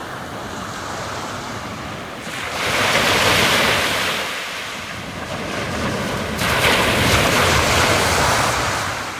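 Waves washing onto the shore, two surges swelling and fading, over a steady bed of wind and water noise.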